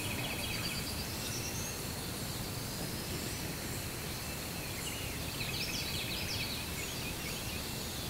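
Dawn woodland ambience: small songbirds singing, a trill near the start and a busier song about five and a half seconds in, over a steady background hiss and a faint high insect drone.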